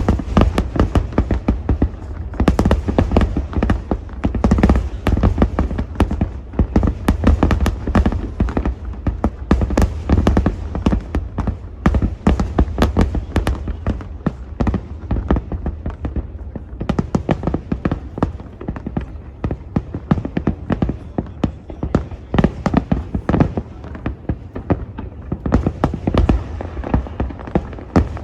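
Aerial fireworks shells bursting in a dense, unbroken barrage: many sharp bangs overlap one another over a heavy low rumble.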